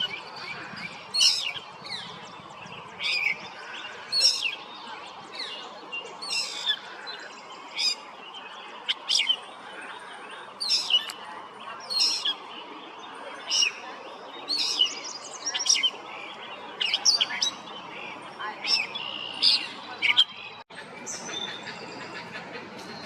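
A bird calling: short, high chirps repeated about once a second, which stop shortly before the end.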